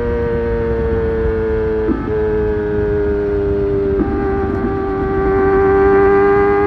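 Kawasaki ZX-25R's 249 cc inline-four engine running at steady high revs under way, its note sagging slightly in pitch. Two brief breaks in the note, about two and four seconds in, come as gears change.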